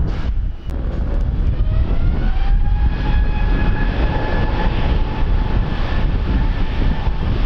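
Airliner engines whining as they spool up, the pitch rising for about two seconds and then holding steady, with wind buffeting the microphone as a heavy low rumble.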